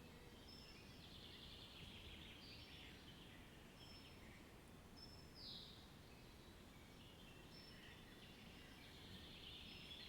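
Faint birdsong: short high whistled notes and chirping phrases from more than one bird, one note falling in pitch about halfway through, over a steady low outdoor rumble.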